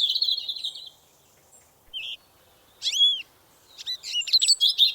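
A songbird singing in short phrases: a quick trill, a single short note, a couple of slurred whistles about three seconds in, then a run of rapid chirps near the end.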